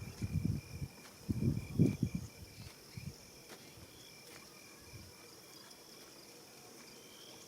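Insects chirping steadily in the evening bush, a rapid even pulsing of one high note with a steady high hiss behind it. Low rumbling bursts come in the first two seconds.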